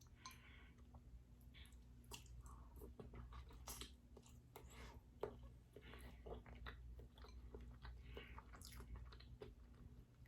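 Faint close-miked eating sounds: a person chewing with soft wet mouth smacks and clicks, food in garlic butter sauce.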